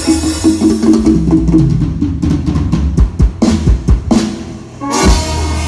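Drum kit of a Thai procession band playing a fill of quick snare and bass-drum strikes as the rest of the amplified music drops away. A little after five seconds in, the full band comes back in with a loud hit.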